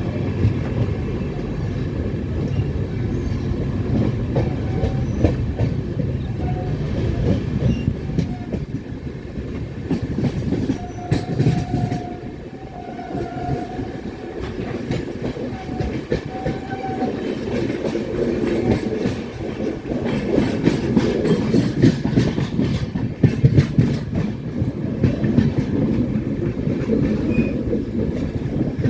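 A moving train: the steady rumble of a running coach with rapid clicking and clickety-clack of wheels over rail joints.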